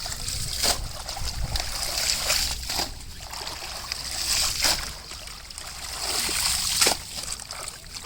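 Water splashing and sloshing in shallow floodwater, with a few sharper splashes about every two seconds over a steady trickling hiss.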